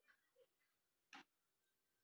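Near silence: room tone, with one brief sharp click a little past the middle.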